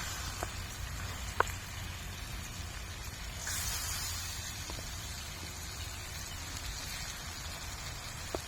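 Steady rain falling, with a few sharp taps of single drops, the loudest about one and a half seconds in.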